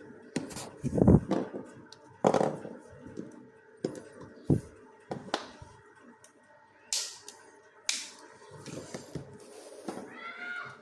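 Plastic Mathlink cubes clicking and knocking together as they are handled and pressed into a build: irregular sharp clicks and taps, with a duller thump about a second in.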